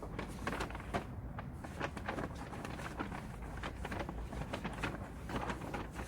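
Faint, irregular clicks and short rustles, several a second, over a low steady hum.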